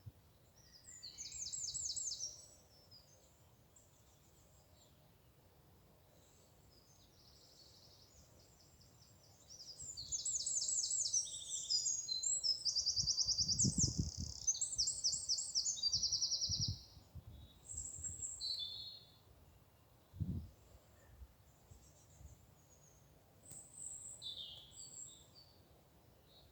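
Woodland birdsong: bursts of rapid, high-pitched trilled phrases, one briefly a couple of seconds in and a longer run in the middle, then scattered shorter calls. A couple of low thuds sound in the second half.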